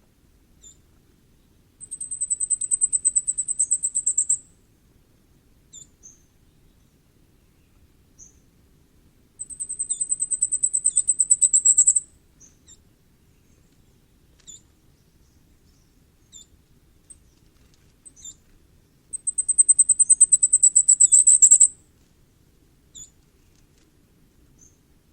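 Common firecrest singing: three songs, each a rapid run of very high, thin notes lasting about two and a half seconds and growing louder toward the end. Short, soft high call notes come between the songs.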